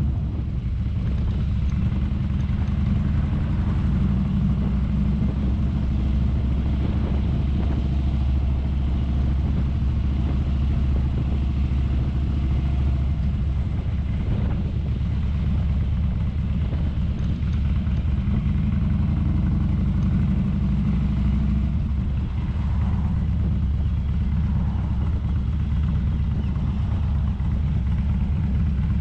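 Motorcycle engine running steadily under way, a low, even drone with a little shift in pitch around the middle and again near the end.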